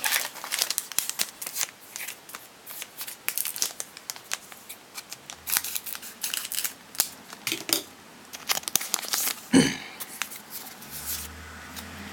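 Foil Pokémon booster pack wrapper crinkling and tearing as it is opened, with dense irregular crackles and card handling. A brief vocal sound stands out about nine and a half seconds in.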